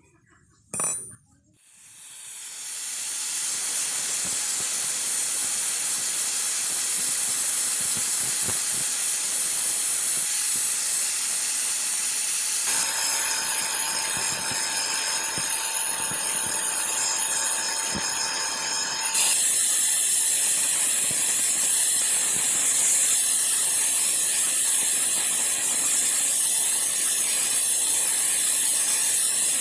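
Electric grinder spinning up about two seconds in, then running with a steady, loud high hiss as it works steel for the saw blade. From about 13 to 19 seconds a steady whine rides on top of the hiss.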